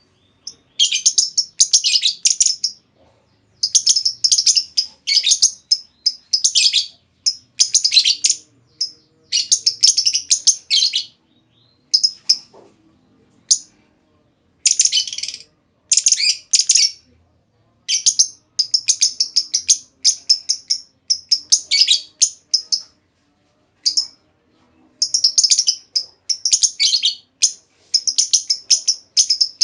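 Female lovebird chattering in rapid, high chirps, in bursts of one to two seconds with short pauses between them.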